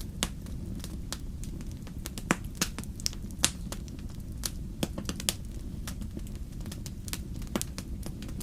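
Wood fire burning in a fireplace: a steady low rumble of flame with frequent sharp, irregular crackles and pops, a few louder pops about two to three seconds in and again about five seconds in.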